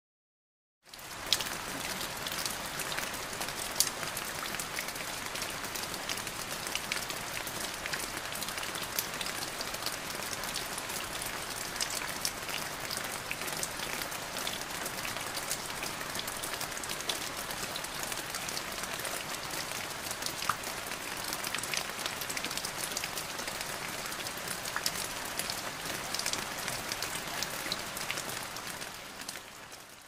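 Steady rain, with many separate close drop hits standing out as sharp ticks over the even hiss of the downpour. It starts about a second in and fades out near the end.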